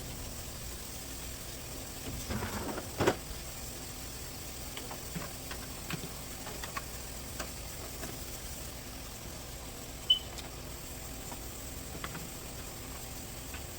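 Scattered light clicks and knocks over a steady background hum, with a brief rustling scrape about two to three seconds in and a sharp metallic clink about ten seconds in.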